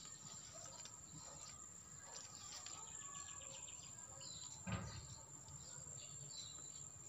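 Faint outdoor garden ambience with scattered distant bird chirps, and a single soft bump about two-thirds of the way through.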